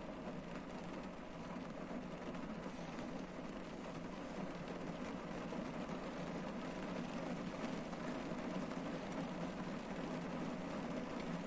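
Rain falling on a parked car's roof and windshield, heard from inside the cabin as a steady, dense patter of drops that grows slightly louder.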